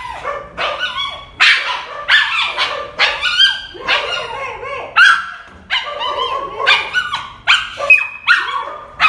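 Pet dog whining in a quick run of short, high-pitched cries, many sliding up or down in pitch. She is whining at being left behind while another dog is taken out for a walk first.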